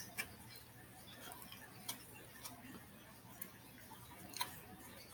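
Faint sounds of someone eating close to the microphone: soft chewing and scattered mouth clicks, a few single clicks a second or so apart.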